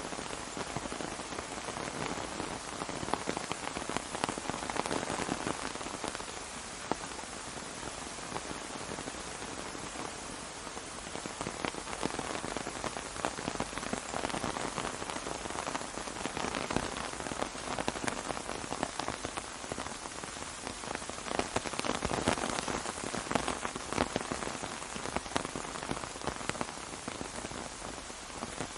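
Rain falling on an umbrella: a steady patter of many drops, with heavier drops standing out now and then.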